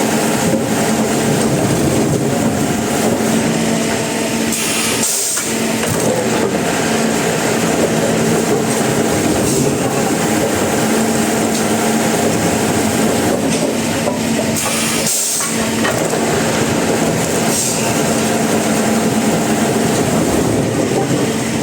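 Sawmill machinery running: a loud, steady mechanical noise with a constant hum, briefly dipping about five seconds in and again about fifteen seconds in.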